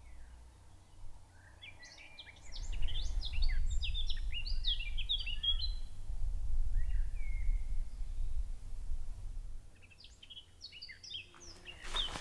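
Small songbird singing rapid, twittering phrases, one a couple of seconds in and a shorter one near the end. Under it runs a low outdoor rumble that swells about three seconds in and dies away about ten seconds in.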